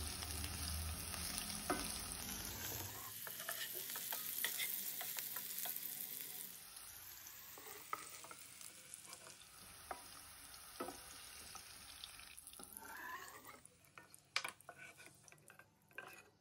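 Diced green capsicum sizzling in hot oil in a non-stick kadai, stirred and scraped with a wooden spatula, with scattered light taps of the spatula on the pan. The sizzle grows fainter in the second half as the pieces are lifted out, leaving a cluster of taps near the end.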